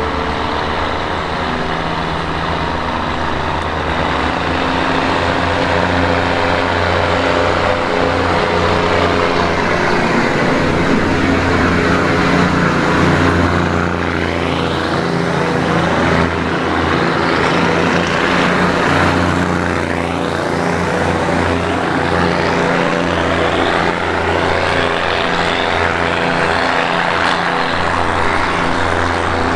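Diesel-hauled passenger train running, heard from inside a third-class coach: a loud, steady drone of engine hum mixed with wheel-and-rail noise.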